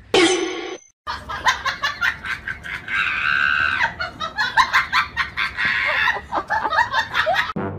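A person laughing hard in quick, high-pitched bursts, starting about a second in, with a drawn-out squealing laugh around the middle.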